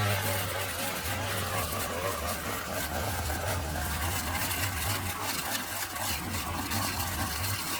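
Small engine running steadily, with a constant low hum under a wide hiss.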